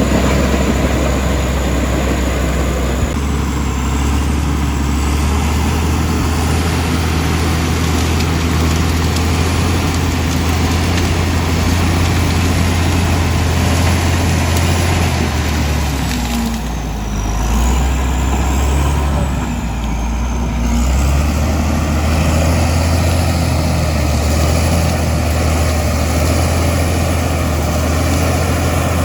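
Komatsu D65E bulldozer's diesel engine running hard under load, a steady low drone that shifts about three seconds in and eases briefly twice past the middle before picking up again.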